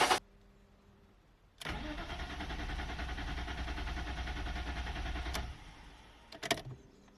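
BMW E39 520i's 2.0-litre inline-six being cranked by the starter for about four seconds without catching, the sign of its crank-no-start fault. A sharp click follows near the end.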